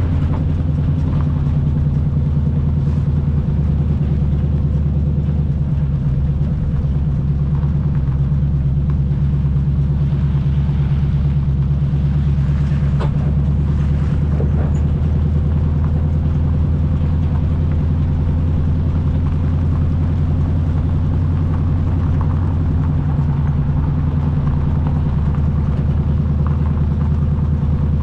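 1980 Chevy K20's 350 small-block V8 running at a steady pace under load while the truck drives, a constant low engine drone with a couple of faint knocks midway.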